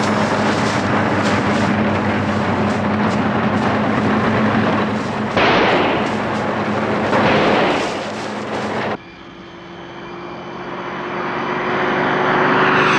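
Large forage harvester's diesel engine and cutting machinery running hard, with two louder surges of noise around five and a half and seven seconds in. About nine seconds in the sound cuts suddenly to a quieter steady engine hum that grows louder toward the end.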